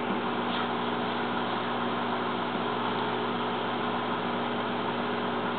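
Microwave oven running: a steady electrical hum over an even fan whir.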